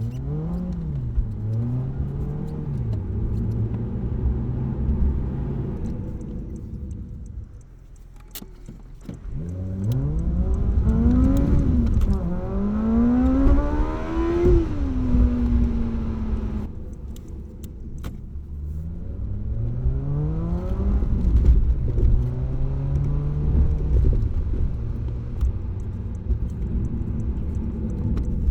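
Car engine and aftermarket exhaust on a drive, played back sped up to double speed: the engine note climbs and falls again and again as it accelerates through the gears, drops into a lull about a third of the way in, then pulls hard through several quick rising sweeps before backing off sharply and picking up again.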